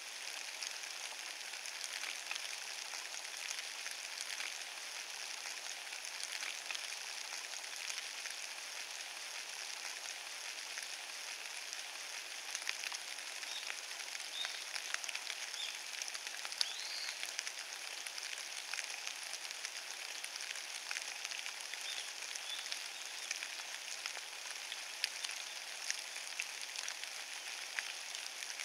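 Steady rain falling on fallen leaves: an even hiss dotted with many small ticks of drops striking the leaves.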